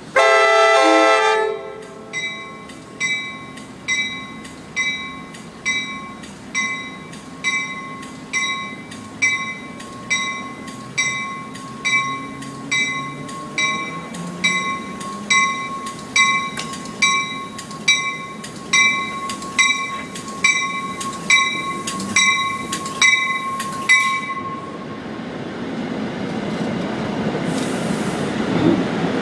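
A commuter train's horn sounds one short blast, then a warning bell rings steadily about once a second for some twenty seconds. Near the end the rumble of the passenger cars rolling past swells.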